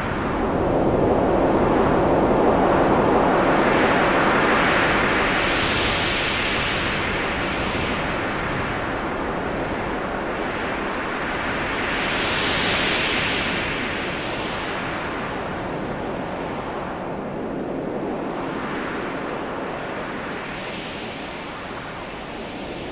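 A long rushing-noise sound effect, without tones or beats, that swells brighter and fades again about five, twelve and twenty seconds in, slowly growing quieter overall.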